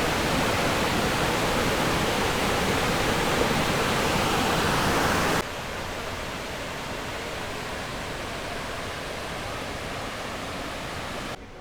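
Rushing water of a mountain stream pouring through a narrow rock gorge, a steady even rush. About five seconds in it cuts abruptly to a quieter, duller rush of water.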